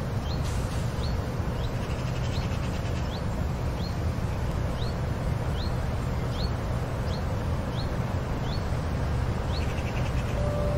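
Outdoor ambience: a bird repeating a single short rising chirp about twice a second, over a steady low rumble.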